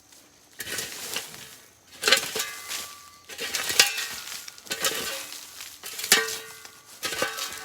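A metal shovel scooping dry, crackling leaves off the ground in six or seven strokes about a second apart, each a rustling scrape, some starting with a sharp knock.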